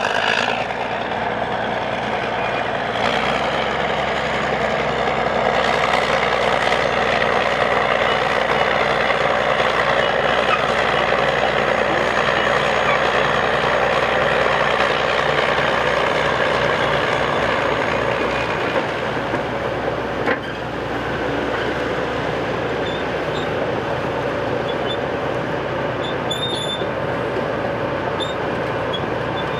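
Caterpillar crawler bulldozer running steadily with a dense mechanical din. About two-thirds of the way through there is a sharp knock, after which it runs a little quieter.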